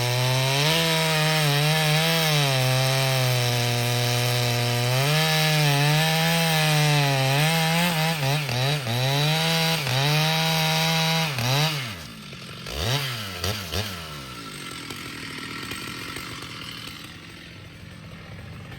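Two-stroke Stihl chainsaw cutting wood at full throttle, its pitch dipping and recovering again and again as the chain loads up in the cut. About twelve seconds in, the throttle is released and the engine winds down, with two short blips of throttle. It then runs much quieter.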